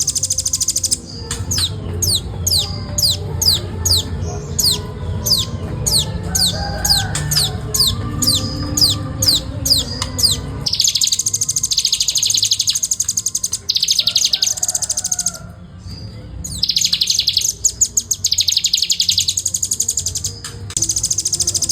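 Velvet-fronted nuthatch calling. For the first half it gives a run of quick, sharp, descending high notes, about two or three a second, and then several fast, dense chattering trills a few seconds long with short breaks between them.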